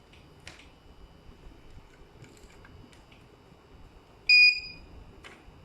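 A UPS gives a single short, high electronic beep about four seconds in, the alert it sounds while running on battery backup. A faint steady high whine runs under it, and a couple of faint clicks come about half a second in and near the end.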